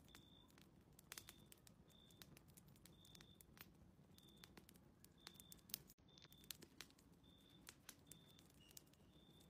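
Faint crackling of a wood fire in a fireplace, with scattered sharp pops. Through it runs a short high chirp, repeated about once a second.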